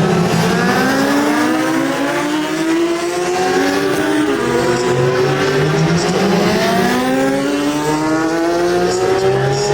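Several racing superbikes accelerating hard together. Their engine notes climb steeply, drop back at each upshift and climb again, with overlapping pitches from different bikes.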